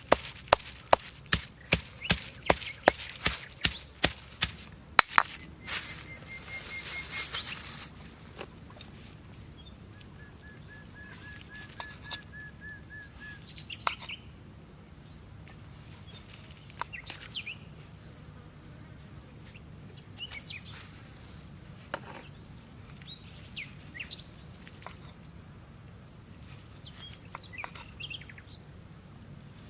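Knife chopping on a board, sharp strokes about three a second, stopping about five seconds in, followed by a brief hiss. Then forest ambience of birds chirping, with a short high chirp repeating about once a second.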